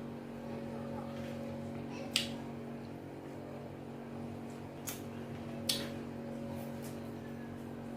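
Close-up mouth sounds of eating amala and ewedu soup by hand: three sharp wet smacks, about two, five and six seconds in, over a steady low hum.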